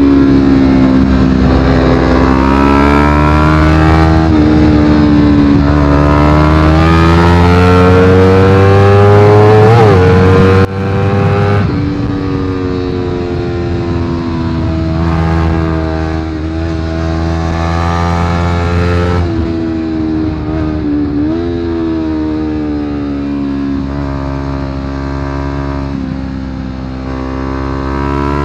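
Honda CBR250RR parallel-twin engine through a Yoshimura exhaust, run hard at high revs, its pitch rising and falling with throttle and gear changes. About ten seconds in it climbs to a peak and then drops sharply.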